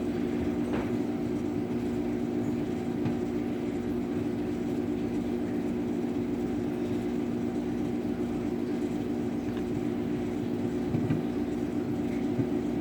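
Microwave oven running with a steady hum, heating an egg that has not yet burst.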